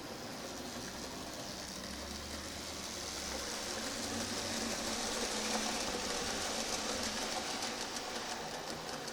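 A freight train hauled by a C11 steam locomotive rolling past, its noise swelling to a peak about halfway through and then fading a little.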